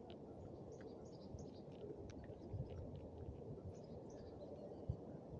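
A steady, even drone from the sky, like a distant jet engine that does not move or change, with faint bird chirps above it and one short thump near the end.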